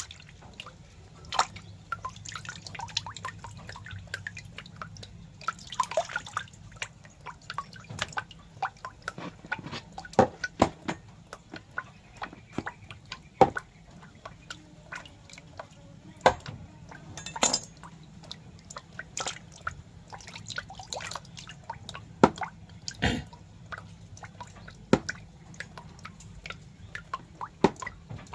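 Irregular wet clicks and drips, scattered unevenly, some louder than others, over a faint low hum.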